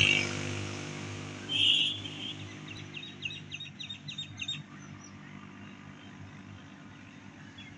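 A bird calling: one short high call, then about a second later a quick run of about eight chirps, over a faint steady low hum.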